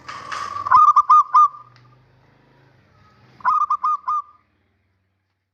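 Male zebra dove (perkutut) cooing: two quick phrases of short, clipped rolling notes, the second about two and a half seconds after the first, then it stops.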